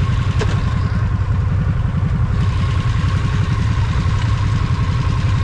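Motorcycle engine idling steadily, a low, evenly pulsing rumble with no revving, with a brief click about half a second in.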